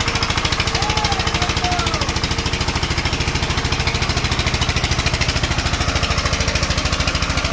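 Eicher 241 tractor's single-cylinder diesel engine running steadily, with a fast, even beat of firing pulses.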